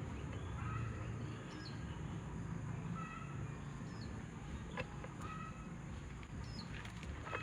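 Birds chirping in short repeated calls over a steady low hum, with a few faint clicks.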